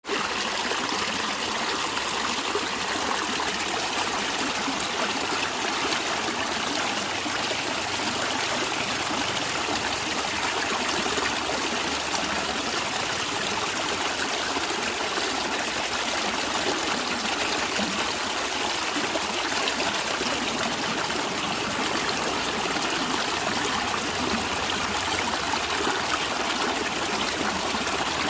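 A natural stream of water running and gurgling steadily, with a constant hiss.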